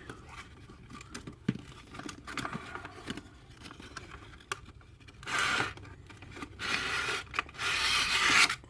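Packaging scraping and rustling as a boxed model railway coach is worked out of its box: faint handling clicks at first, then a short burst of scraping and a longer one near the end.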